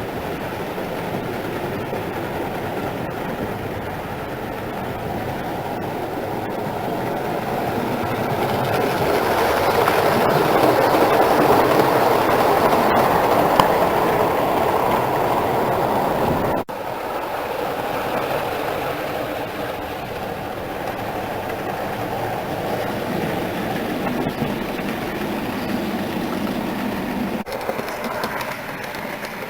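Model railway train running on the layout: a steady rumble and clatter of its wheels on the track, swelling louder for several seconds around the middle as the train passes close, then carrying on at a lower level after an abrupt break.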